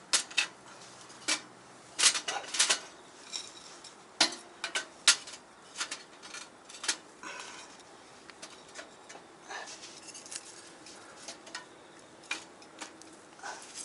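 Split kindling sticks clattering and knocking against each other and against thin metal, in irregular sharp knocks, as a fire lay is built for a small folding steel wood stove.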